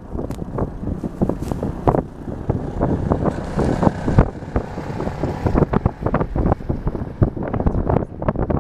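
Wind buffeting the microphone: irregular, rumbling gusts with uneven thumps, and a brief hiss around the middle.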